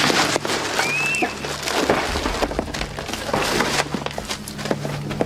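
Sound effects from a TV action scene: a fast, dense run of crackling and crashing, like wood splintering and things breaking, with a short high whistling tone about a second in, over a steady low drone.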